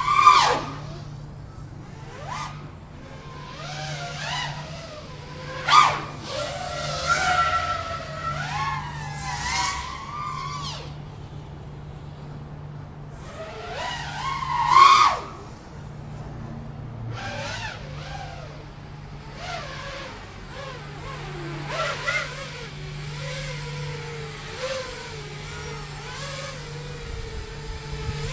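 FPV quadcopter motors whining, the pitch sweeping up and down with the throttle, with several sharp loud surges as the throttle is punched.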